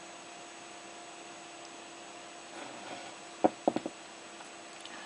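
Small 28BYJ-48 5 V stepper motor humming steadily as it drives the valve screw, the hum fading out about two and a half seconds in. About a second later come a few sharp knocks close together.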